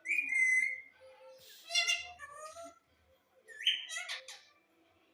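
Indian ringneck parakeet calling: three shrill, high-pitched calls, the first right at the start, another about two seconds in and a last one about four seconds in.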